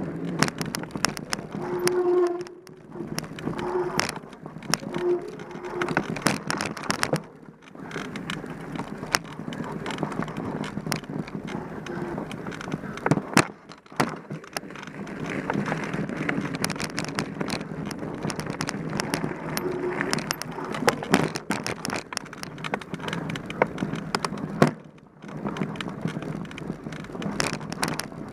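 Mountain bike ridden over rough dirt trail: steady tyre noise with many sharp rattles and knocks as the bike bumps along, easing off briefly a few times.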